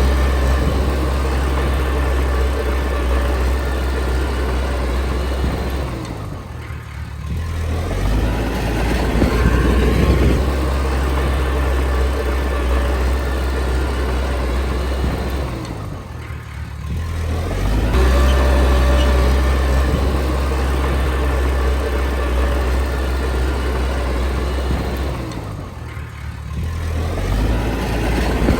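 Komatsu D20P bulldozer's diesel engine working steadily, easing off briefly three times, about every ten seconds, before picking up again.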